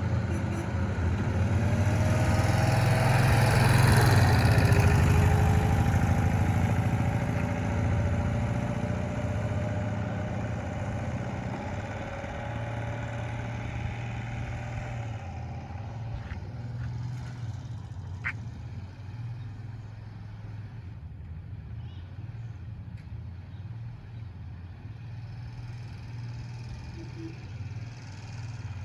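1965 Cushman Truckster's engine running as the vehicle is driven. It is loudest about four seconds in, with its pitch sliding slowly, then fades steadily.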